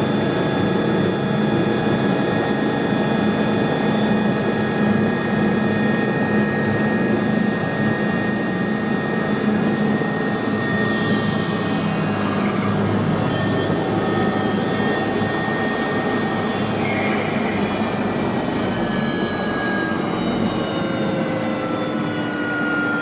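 Aircraft turbine engine running with a steady, high whine over a rushing bed; about halfway through, several of its tones slide slowly down in pitch.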